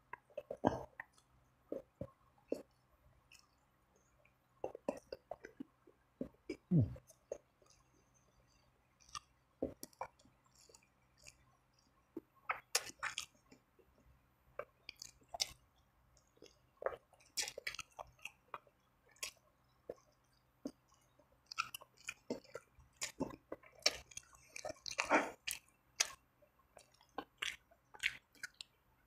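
Close-miked chewing and wet mouth sounds of a person eating spicy Samyang instant noodles and fried chicken, in irregular bursts of smacks and small crunches.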